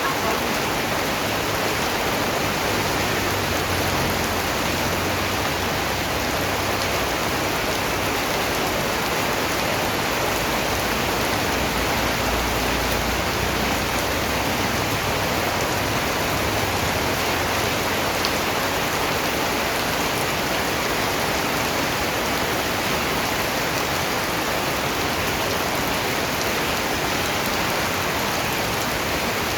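Steady rain falling, a constant even hiss of many raindrops with no change in strength.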